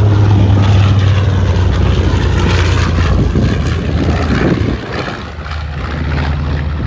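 Propeller airplane's piston engine droning steadily with a broad rush of prop noise, growing quieter and slightly lower about five seconds in as it passes.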